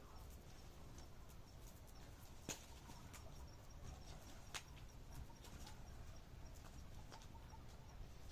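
Faint campfire crackling: scattered sharp pops over a low rumble, two louder ones about two and a half and four and a half seconds in. A faint, high, even ticking at about six a second runs through the middle.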